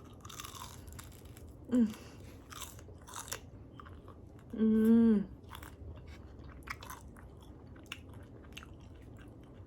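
Biting and chewing crispy-skinned air-fried chicken wings, with many short crunches and crackles throughout. A brief hum about two seconds in and a longer held hum around five seconds come from the eater.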